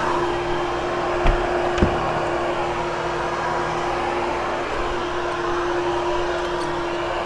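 Hoover HushTone vacuum cleaner running steadily over shag carpet, a constant motor hum under airflow noise, with two short knocks about a second and a half in.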